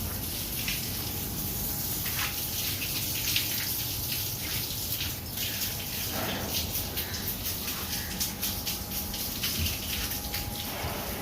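Water running from a garden hose and splashing steadily, with many small irregular splashes, as plants are watered.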